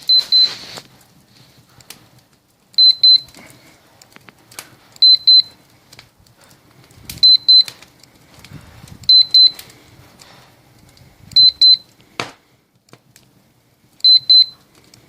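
Handheld digital temperature meter (pyrometer) beeping a short high double beep seven times, roughly every two seconds, as wall temperatures are taken. A single sharp click about twelve seconds in.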